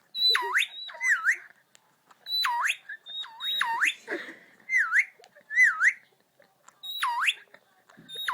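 Indian ringneck parakeet whistling the same phrase over and over: a high held note that swoops sharply down and back up, with shorter, lower swooping whistles between, in bursts of a second or so.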